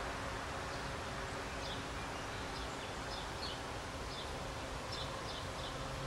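Steady outdoor background hiss with faint, short high chirps from a distant small bird, scattered through and sometimes in quick clusters of two or three.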